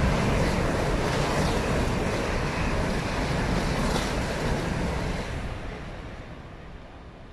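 Eurostar high-speed train passing at speed: a steady rush of air and wheel noise, loudest in the first few seconds, then fading away from about five seconds in.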